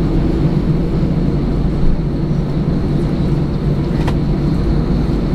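Airbus A318 airliner's engines heard from inside the passenger cabin: a loud, steady, deep rumble with a faint high whine above it.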